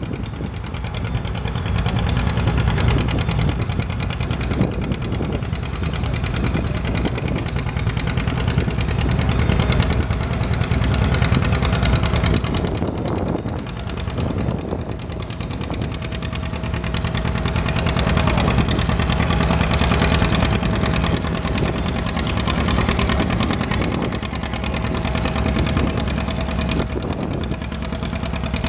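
Antique farm tractor engine running steadily and loud, its level swelling and easing a little every few seconds.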